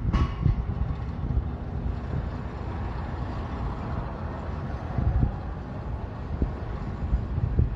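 Wind gusting on the microphone as a low, uneven rumble, with one short sharp knock right at the start.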